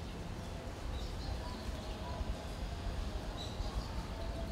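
Outdoor background with a steady low rumble like wind on the microphone, and a few faint, short chirps from small birds.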